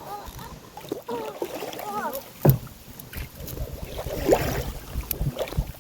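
Kayak being paddled on a river: paddle strokes and water splashing, with a sharp knock on the hull about two and a half seconds in and another near the end, and wind rumbling on the microphone in the second half.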